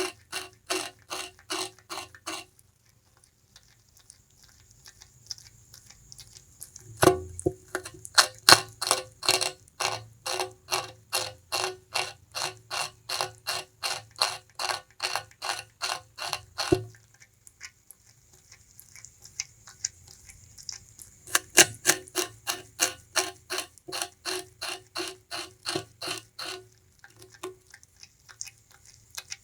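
Bamboo rat gnawing and chewing sugarcane: rapid, even crunching bites at about three or four a second, in three bouts with short pauses between them. The longest bout, of about ten seconds, comes a few seconds in.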